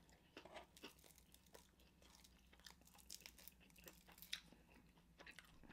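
Faint crunching and tearing of extra-crispy fried chicken wings being bitten and chewed: a scatter of small crackles, with one sharper crunch about four seconds in.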